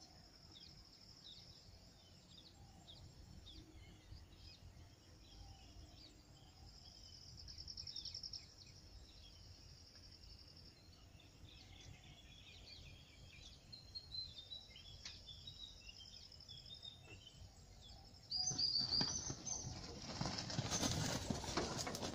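Wild birds chirping and calling over a faint low rumble, with a brief buzzy trill a few seconds in. About eighteen seconds in, a sudden loud rush of noise takes over, with a few high calls on top.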